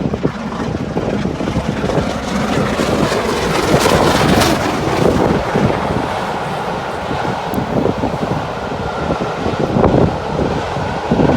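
LMS Jubilee class steam locomotive 45596 Bahamas passing with its train, mixed with heavy wind buffeting the microphone; loudest about four seconds in.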